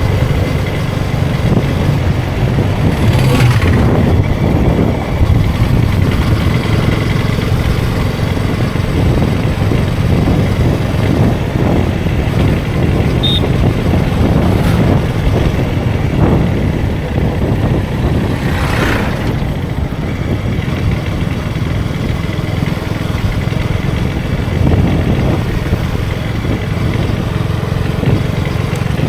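KTM Duke 250 single-cylinder engine running steadily at road speed, with wind and tyre rush on the rider's microphone. Two brief swells of rushing noise, about 3 seconds in and again near 19 seconds.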